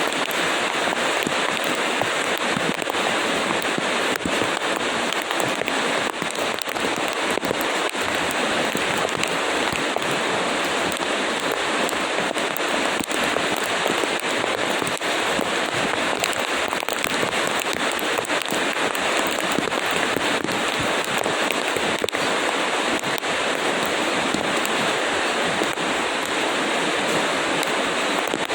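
Steady heavy rain falling and pattering on surfaces, a dense even hiss full of small crackling drop impacts.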